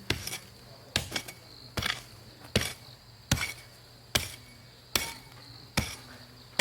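Evenly paced strikes of a hand tool, about one every 0.8 seconds, some eight blows in all. A steady high insect chirring runs underneath.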